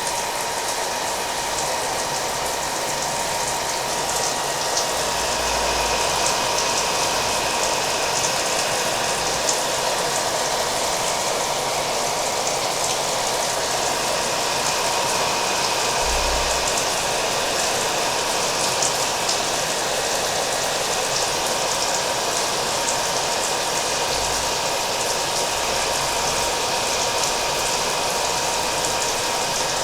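Hair dryer running steadily, a constant rushing of air with a thin steady whine, mixed with the even patter of falling rain.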